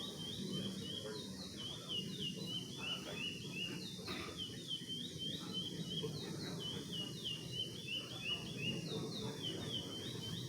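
Curió (chestnut-bellied seed finch) singing without a break: a quick series of short whistled notes, each sliding downward, repeated over and over, over a low background hum.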